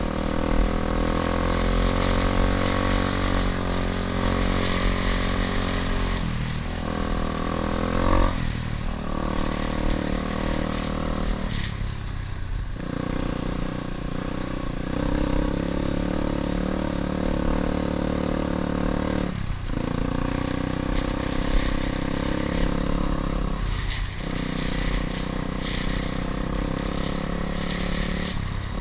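Dirt bike engine running under way. The engine note dips and picks up again several times, at shifts or throttle changes.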